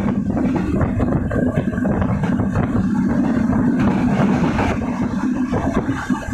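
Silkcity Express passenger train running along the track: a steady low rumble and hum with continual rattling, heard from on board.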